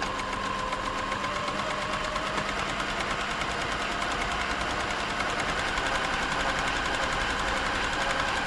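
Silver 1139 sewing machine (a Pfaff-built Tipmatic) running steadily as it sews a stretch stitch, its motor whine rising slowly in pitch. The stitching is even now that the bottom-thread loop problem has been repaired.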